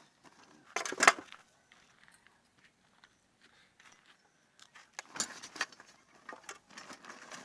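Metal hand tools clinking and rattling as they are handled and put down. There is a loud clatter about a second in and another about five seconds in, with small clicks between.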